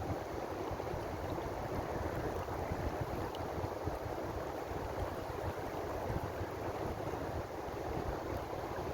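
Ocean waves washing steadily, a continuous, even rush of surf with no distinct breaks.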